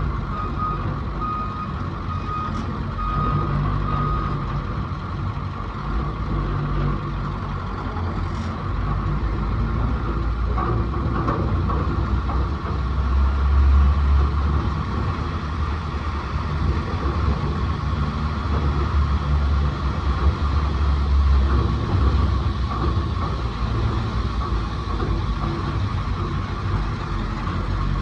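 A heavy vehicle's diesel-type engine running steadily, with a backup alarm beeping about once a second for the first few seconds. The engine swells louder twice in the middle, as if working under load.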